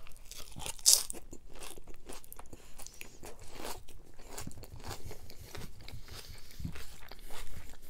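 Close-miked biting and chewing of a crunchy salad of cucumber, greens and noodles, with a sharp crunch about a second in and wet, crackly chewing after.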